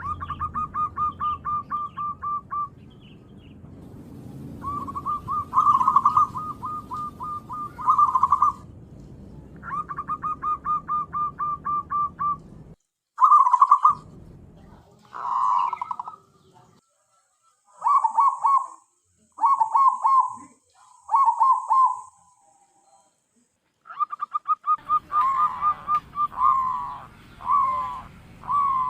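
Zebra dove (perkutut) cooing: phrase after phrase of rapid staccato notes, separated by short pauses, used as a lure call for trapping perkutut. A low background rumble lies under the first half and stops abruptly about halfway through.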